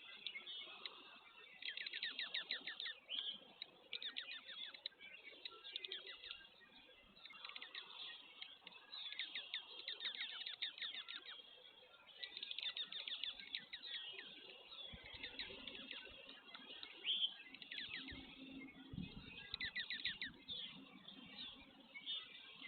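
Wild birds chirping and calling in quick runs of short descending notes, repeated again and again. A few soft low knocks come in the second half.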